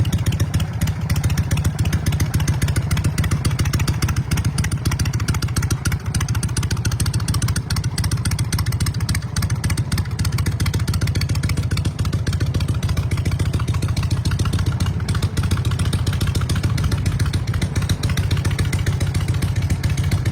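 2002 Harley-Davidson Softail Deuce's Twin Cam 88B V-twin running steadily through aftermarket West Coast Choppers exhaust pipes, a fast, even low pulse.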